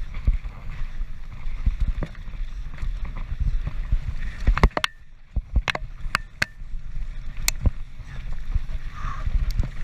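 Transition Patrol mountain bike riding fast downhill on a helmet or chest GoPro: a steady low rumble of wind on the microphone with the bike's rattle. Partway through, the rumble briefly drops and a run of sharp clicks and knocks follows.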